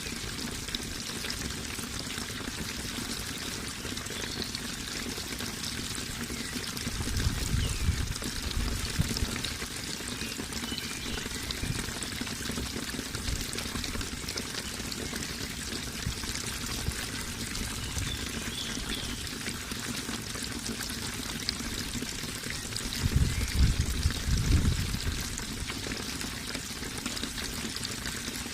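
Water flowing and trickling steadily, a continuous splashing stream sound, with two brief louder low rumbles, about seven seconds in and again a few seconds before the end.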